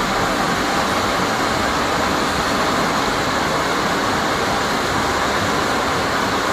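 Floodwater of a swollen mountain river rushing past, a loud, steady rush of water.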